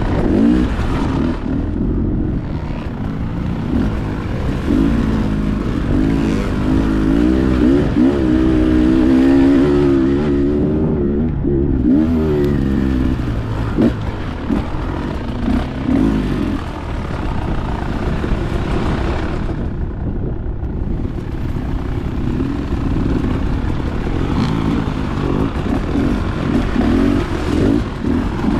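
Dirt bike engine running on a trail ride, its pitch rising and falling as the throttle is opened and closed, with a sharp knock about halfway through.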